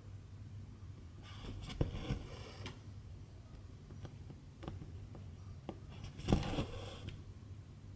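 Silk embroidery thread being drawn through cross-stitch fabric, a soft hiss heard twice: about a second in and again about six seconds in. Small clicks of the needle piercing the cloth come between the pulls, over a faint steady low hum.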